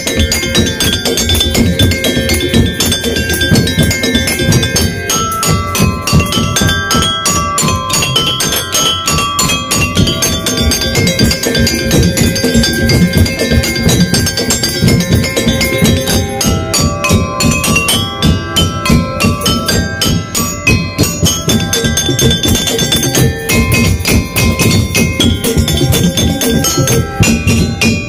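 Daul Madura music: a percussion ensemble playing a fast, driving beat of drums and knocking percussion, with tuned percussion and other pitched instruments carrying a melody over it.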